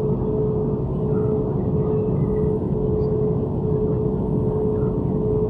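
Steady cabin noise of an airliner on the ground with its engines running: a low rumble under a constant hum.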